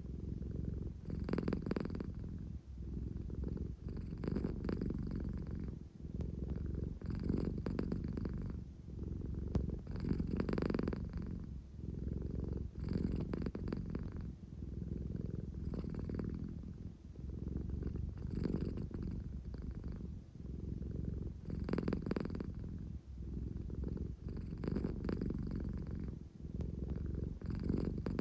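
An American Shorthair cat purring steadily and continuously, the purr swelling and easing about every three seconds. This is the purr she makes when sleepy but wanting affection.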